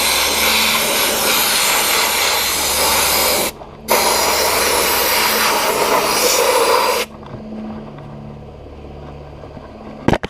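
Sandblast gun firing glass bead media at an oxidized motorcycle engine: a loud, steady hiss of air and abrasive. It cuts out briefly about three and a half seconds in, resumes, then stops at about seven seconds. A low steady hum runs underneath throughout, and a few sharp clicks come near the end.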